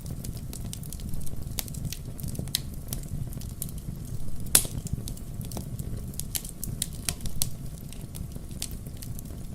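Burning firewood crackling, with irregular sharp pops and snaps over a low steady rumble of flames; one louder pop comes about halfway through.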